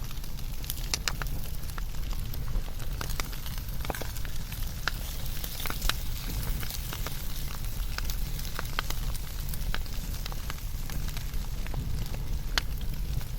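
Wood fire burning with a steady low rumble, and frequent sharp, irregular crackles and pops.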